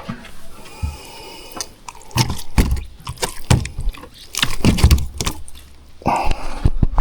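Irregular knocks, scrapes and rattles of fishing gear being handled in a small boat after a barramundi is landed and measured, with louder thumps now and then.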